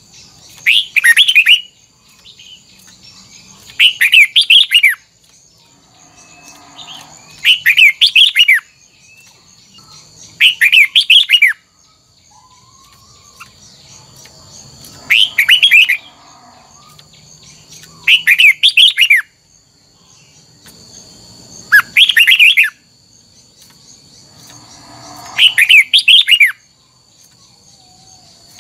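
Red-whiskered bulbul singing short, quick warbled phrases, one every three to four seconds, over a faint steady high-pitched hum.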